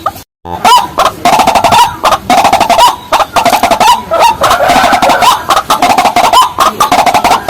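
Rails calling: a dense, continuous run of loud, short repeated notes, several a second, with overlapping birds. Just after the start there is a brief cut to silence where the recording is spliced.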